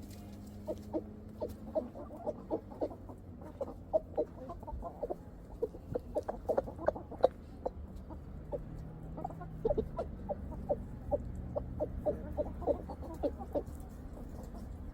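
Chickens clucking, many short calls several a second, overlapping one another.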